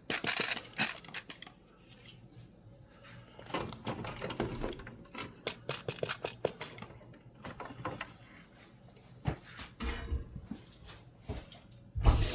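Scattered light clicks and knocks of hands working on the water heater. Near the end, the Rinnai tankless heater's combustion fan starts abruptly with a loud, steady rush as hot water is called for.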